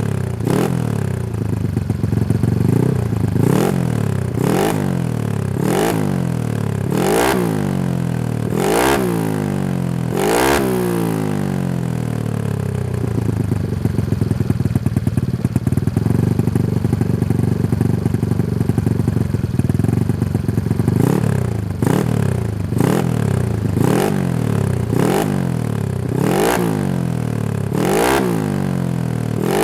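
Honda Scoopy's single-cylinder four-stroke engine revved through a CLD Racing New C2 aftermarket exhaust. The throttle is blipped repeatedly, about once every second and a half, then held at a steady raised speed for about nine seconds. The quick blips then resume.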